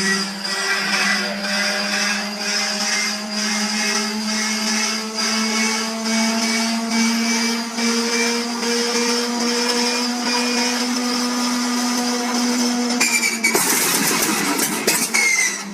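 Hand-cranked inertia starter on an aircraft radial engine, a whine that rises slowly in pitch as the flywheel spins up. About 13 seconds in it gives way to the radial engine catching and firing roughly.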